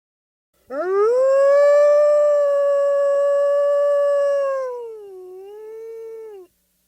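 Wolf howling: one long call that rises quickly, holds steady, dips, then trails off in a quieter falling tail and stops abruptly.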